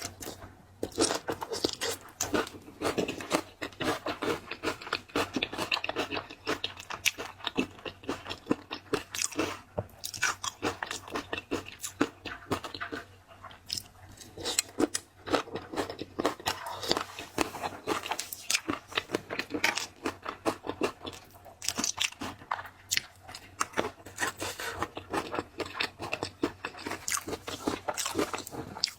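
A person eating seafood, crunching, biting and chewing continuously with many quick irregular crackles.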